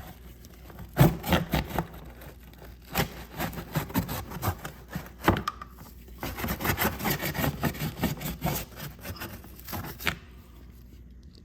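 Chain brush scrubbing a motorcycle drive chain freshly sprayed with chain cleaner, bristles scraping in quick, uneven back-and-forth strokes that stop near the end.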